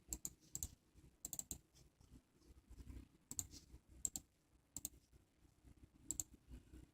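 Faint keyboard key presses: scattered single taps and short clusters at an irregular pace, with pauses between them.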